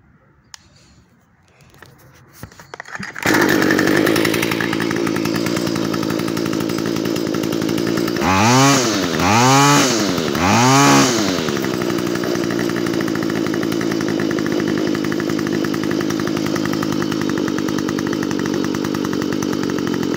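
Stihl FS45 two-stroke string trimmer engine starting about three seconds in, after a few clicks. It is revved three times, then idles steadily. It starts and runs now that the clogged spark arrester screen has been taken out of the exhaust.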